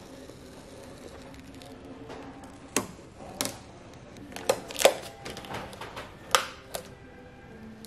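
A handful of sharp knocks and clicks, about six, irregularly spaced, in the middle stretch, over a faint steady background hum.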